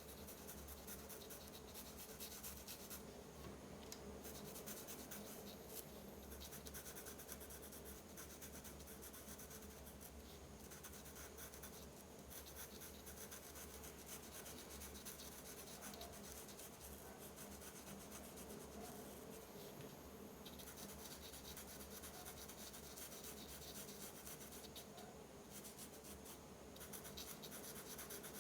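Faint, continuous scratching of a drawing tool on paper, in stretches of stroke after stroke, over a low steady hum.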